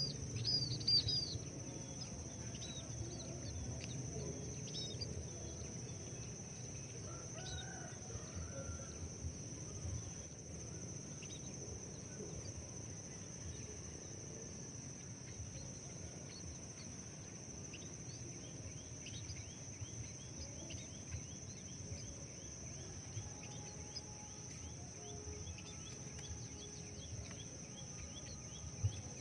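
Small birds chirping in short high calls, loudest and densest in the first second, then scattered chirps throughout, over a steady high-pitched whine and low outdoor background noise.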